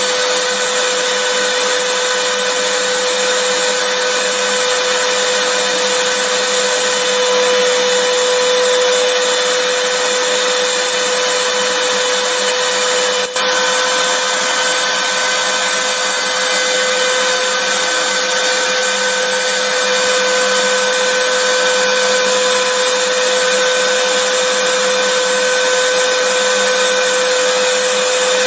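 Vacuum cleaner running steadily: a constant rushing hiss with a steady mid-pitched whine. A very brief dip in level about halfway through.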